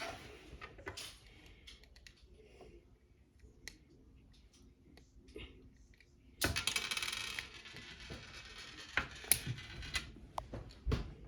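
Small plastic construction-kit parts clicking and rattling as they are handled, with a denser burst of rattling about six seconds in and a few sharper clicks after it.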